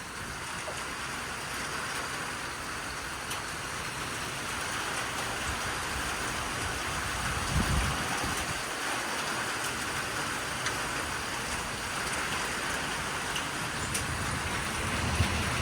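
Strong storm wind blowing steadily with rain falling, gusting hard about halfway through and again near the end, the gusts buffeting the microphone with a low rumble.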